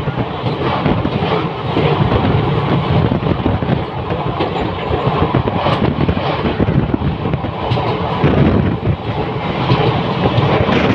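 Passenger train running over a river bridge, heard from an open window or door: a steady, loud rumble with dense clatter of the wheels on the rails.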